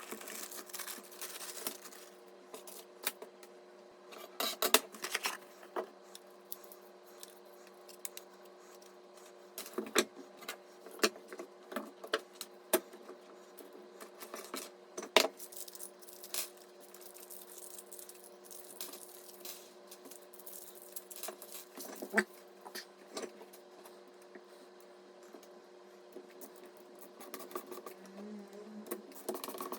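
Irregular clicks, taps and light metallic rattles of computer hardware and screws being handled and fitted, over a faint steady hum.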